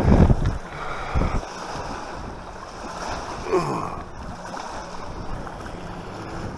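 Wind buffeting the microphone, with a strong low gust about the start, over a steady rush of wind and lapping lake water.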